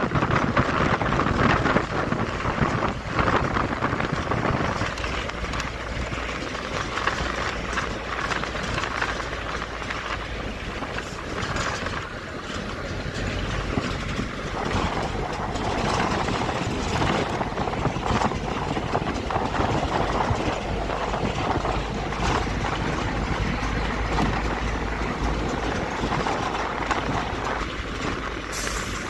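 A river in flood, its water rushing as a steady, even noise.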